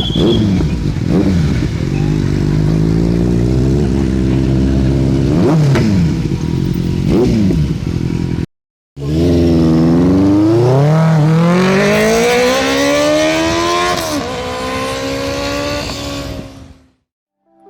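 Superbike engine idling with several quick throttle blips. After a brief cut it revs up in one long rising pitch over several seconds, then fades out just before the end.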